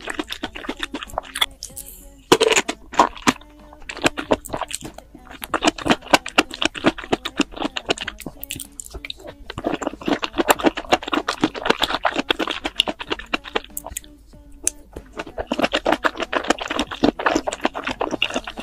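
Close-miked chewing of saucy mushrooms: fast, wet crunching and smacking mouth clicks in runs of a few seconds, with brief pauses between mouthfuls.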